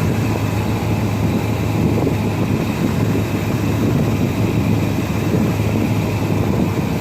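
1973 Chevrolet Impala's V8 idling steadily through Flowmaster mufflers, with a mild aftermarket cam, running smoothly on freshly fitted spark plugs.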